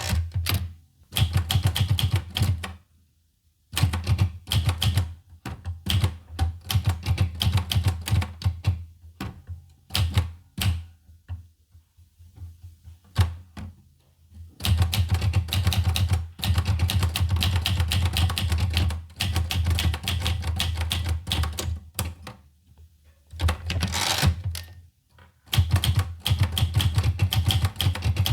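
Olivetti Lettera 25 manual portable typewriter being typed on: rapid runs of key strikes broken by short pauses, with a brief rasping sweep about 24 seconds in.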